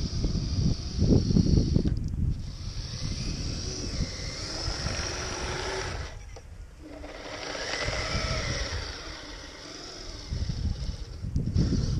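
Kyosho Blizzard RC snowcat on metal tracks running through light snow: a whine from its electric motor and gearing that rises and falls, over an uneven low rumble from the tracks. The sound drops away briefly twice, about two seconds in and around the middle.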